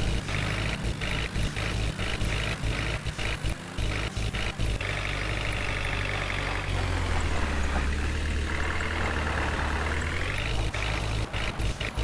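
Heavy diesel machinery engine running. About seven seconds in, its pitch sags and a deep low drone comes up, as if it is working under load. Near the end the pitch climbs back up.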